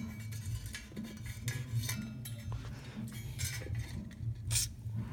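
Low, steady electrical hum of a GE 12-inch desk fan's motor running on a low capacitor setting, struggling, typical of slightly stiff bearings, with a few light clinks and knocks of handling over it, the sharpest about four and a half seconds in.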